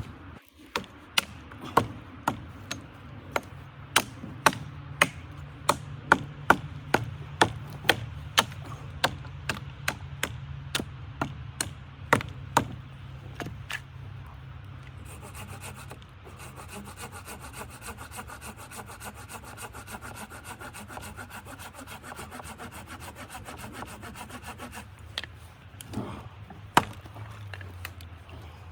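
Wood being cut with a hand saw: sharp, regular strokes about two a second, turning about halfway through into a steadier rasp, with a few more strokes near the end.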